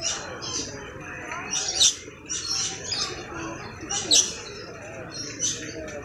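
Birds giving a string of short, sharp, high-pitched chirps every half second to second, the loudest about two and four seconds in.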